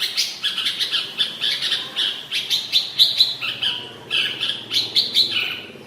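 Red-whiskered bulbul singing: quick runs of short, bright chirping notes with brief pauses.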